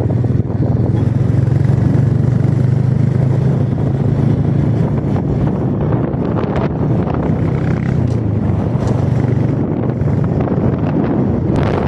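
Motorcycle engine running steadily at an even pitch. Near the end a rush of wind noise comes in over it.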